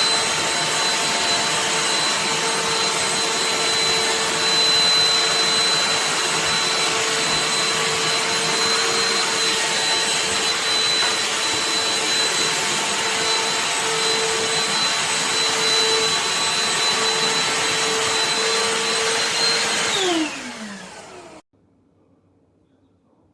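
Black+Decker 20V dustbuster cordless handheld vacuum running loud and steady with a constant whine. About twenty seconds in it is switched off: the pitch falls as the motor spins down, then the sound cuts out.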